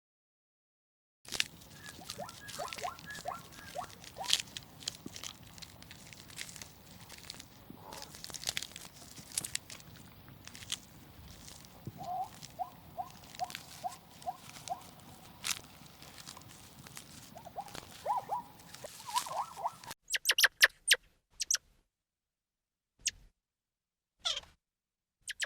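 Small animal calls: runs of short chirps over scattered clicks and crunching sounds, then after a pause a few sharp, very high squeaks, each falling quickly in pitch.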